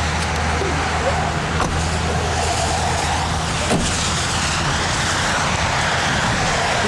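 Steady road and engine noise heard from inside a moving car, with a low hum under an even hiss and one short click about halfway through.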